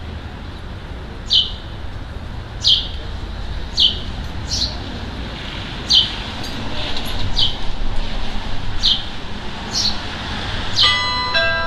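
A small bird repeating a short, sharp, downward chirp about once every second or so. About eleven seconds in, the carillon's bells start to ring, several notes at once.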